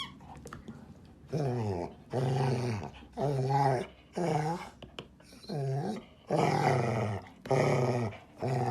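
A dog vocalizing in a series of about eight short, growl-like calls, roughly one a second, each bending in pitch.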